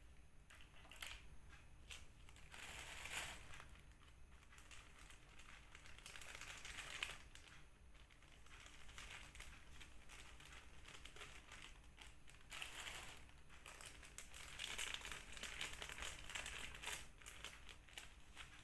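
Faint crinkling and rustling of plastic packaging being handled, in several short spells.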